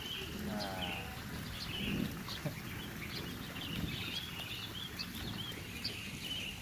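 Small birds chirping in short repeated notes over a low outdoor rumble, with one brief wavering animal call about half a second in.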